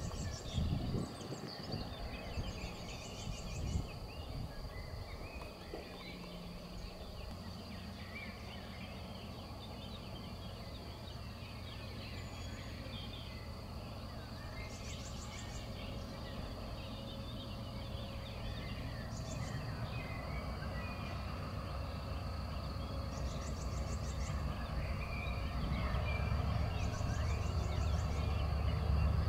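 Countryside ambience of birds calling and short, repeated insect trills, while the low rumble of an approaching train builds steadily louder through the second half.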